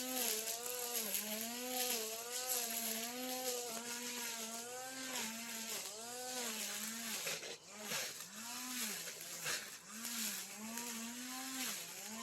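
Brush cutter's small engine running at cutting speed, its pitch sagging and picking up again about once a second as the blade swings through grass. The engine dips more deeply a couple of times near the end.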